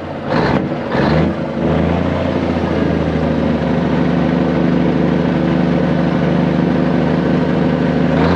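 Kenworth W900A dump truck's diesel engine running: a few short loud bursts in the first second, then a steady, even run.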